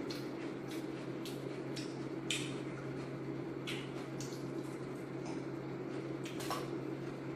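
Close-up eating sounds: irregular wet mouth smacks and chewing clicks as spoonfuls of coleslaw are eaten from a paper cup with a plastic spoon. A steady low hum runs underneath.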